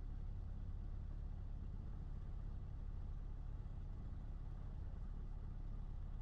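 Cessna 152's four-cylinder Lycoming O-235 engine running steadily at low power, a low, even drone.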